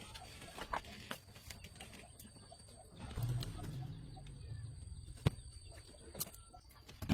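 A dove cooing low and soft about three seconds in, with a few sharp clicks or taps scattered through, the loudest about five seconds in.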